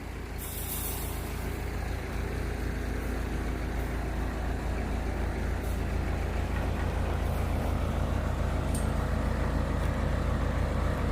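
Backhoe's diesel engine running steadily as its arm is worked, getting a little louder over the first couple of seconds, with a brief hiss about half a second in.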